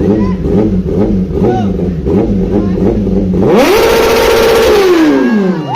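Kawasaki ZX-10R's inline-four engine idling, then revved once about three and a half seconds in: the pitch climbs sharply, holds for about a second, and drops back near the end.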